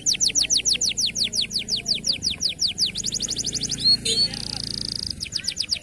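Domestic canary singing a rolling trill of rapid, falling whistled notes, about seven a second. The trill speeds up briefly past the middle, breaks for a short held high buzz, then rolls on again near the end.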